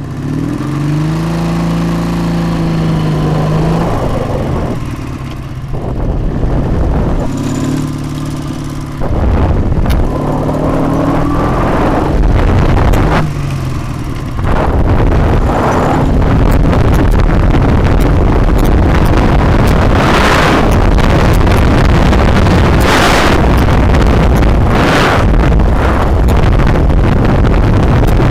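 Dnepr MT-10-36 motorcycle's flat-twin engine pulling away and revving up in pitch, the revs dropping briefly between gears about five, nine and fourteen seconds in. In the second half, wind rushing over the microphone drowns it out.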